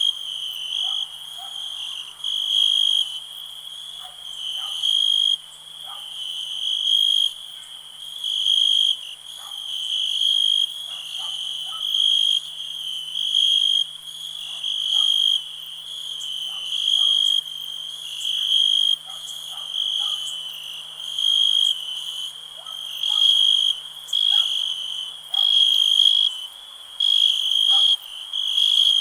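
Crickets trilling in a rhythmic chorus, a high shrill pulse swelling roughly every two seconds and coming quicker near the end, over fainter, lower scattered chirps.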